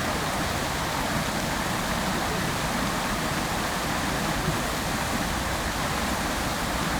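Outdoor fountain with water jets splashing down into its basin, giving a steady, unbroken rush of falling water.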